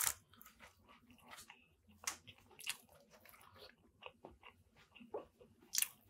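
Close-miked mouth sounds of a person chewing a bite of a Subway sub: soft, irregular smacks and faint crunches of bread and lettuce. A louder rustle at the very start as the sandwich is set down on its paper wrapper.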